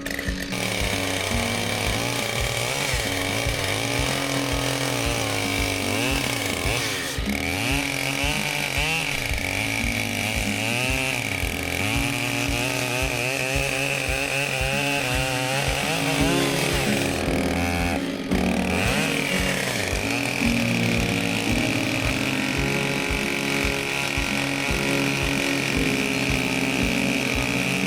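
Chainsaw cutting through downed tree logs, its engine revving up and down through the cuts, under background music with a steady beat.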